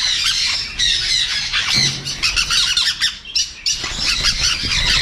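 A flock of caged parrots, conures among them, squawking and screeching over one another in a dense, continuous chorus.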